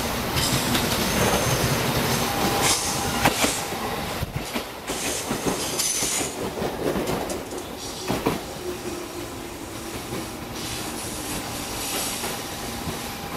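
JR Central 213 series electric train rolling past over station pointwork. Its wheels click irregularly over rail joints and crossings, with a steady thin wheel squeal, and the sound eases a little as the last car goes by.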